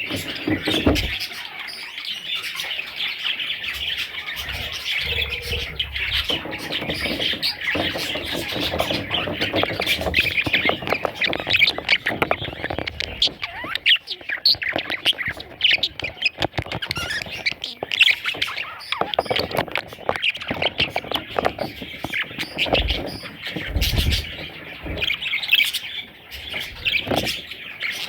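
Budgerigars calling continuously: many short, rapid calls overlapping, with a couple of low thumps about a second in and near the end.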